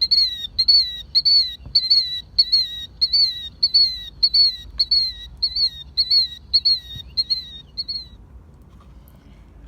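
Killdeer calling: a fast run of shrill, identical notes, each rising then dropping in pitch, about two and a half a second, stopping about eight seconds in.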